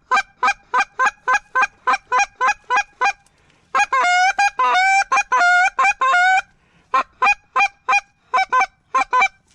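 Goose call blown by a hunter close to the microphone: quick short honks at about four a second, a run of longer drawn-out honks with a rising break in the middle, then more clipped honks in small groups.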